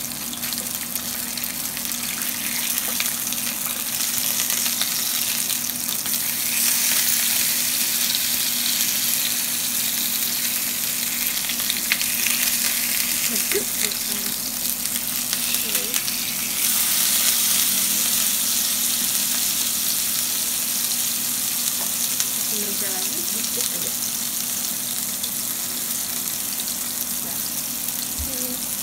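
Salmon fillets sizzling as they pan-fry in hot oil in a nonstick frying pan: a steady frying hiss that grows louder a few seconds in.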